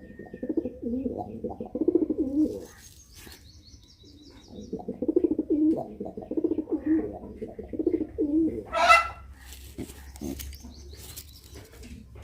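Pigeon giving low, fast-throbbing coos in two long runs, the first about two and a half seconds and the second about four seconds, the agitated cooing of an angry pigeon. A short sharp rustle comes about nine seconds in.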